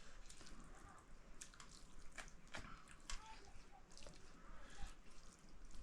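Faint scattered clicks and small taps over a quiet background hiss.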